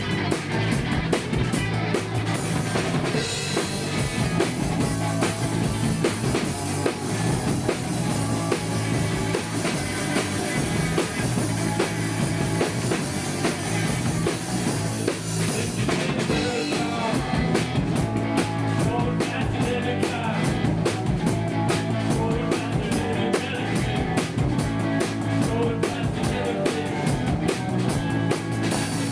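Rock band playing: drum kit, bass and guitar with a steady beat. About halfway through, the cymbals come in hard and the drumming gets busier.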